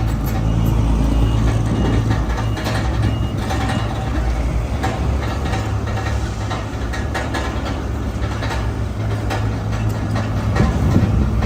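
Heavy diesel engines of a bulldozer and dump truck running steadily at a land-fill site, with scattered clanks. A reversing alarm beeps about twice a second for the first few seconds.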